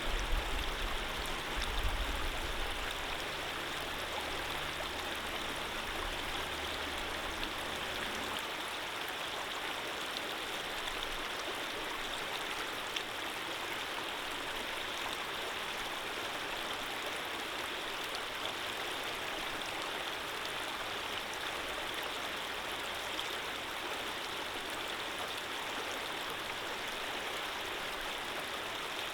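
Water running steadily in a stream, an even rushing flow. A low rumble sits underneath for the first eight seconds or so and then cuts off suddenly.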